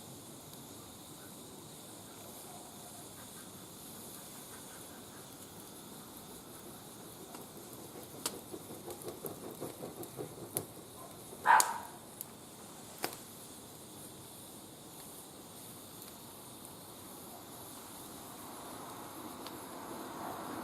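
Wood fire burning in a barbecue grill: a faint steady hiss, with a run of small crackles about eight seconds in and a few sharp pops around the middle, the loudest near twelve seconds. A broader rushing noise swells slowly near the end.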